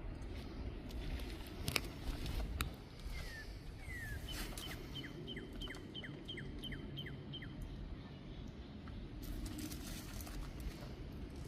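A songbird calling a quick run of about ten short, downward-slurred chirps, over a steady low rumble of wind on the microphone. There are a couple of sharp clicks near the start.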